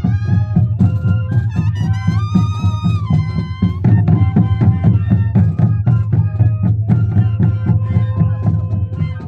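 Moseñada band: a troupe of moseño duct flutes playing a melody together over a steady drum beat.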